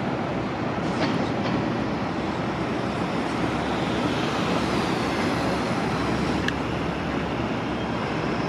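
Steady rumble of heavy vehicles running at a bus terminal, likely city transit buses, with a few faint clicks or squeaks over it.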